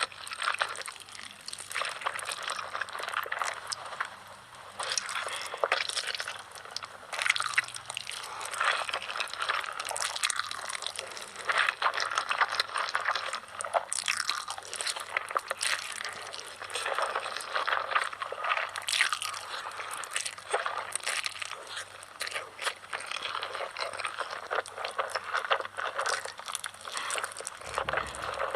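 A person eating noodles: a continuous run of wet chewing, slurping and smacking mouth sounds made of many quick clicks and squelches.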